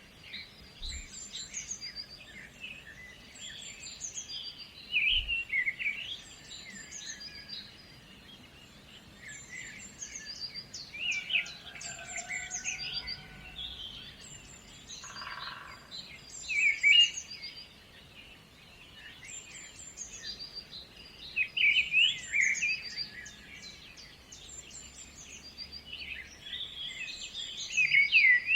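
Birds singing and chirping in short, quick phrases, several overlapping, with the song rising and falling in bouts every few seconds.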